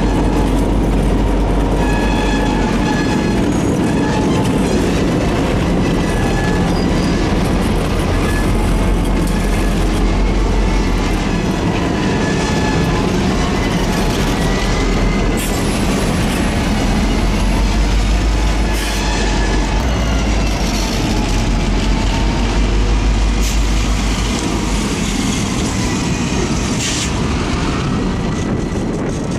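Freight train rolling slowly past: its wheels squeal against the rail with a wavering pitch over a steady low rumble of railcars and diesel locomotives. A faint high whistle comes in twice in the second half.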